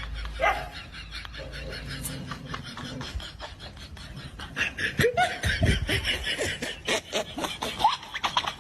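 Laughter: runs of short breathy laughs, livelier in the second half.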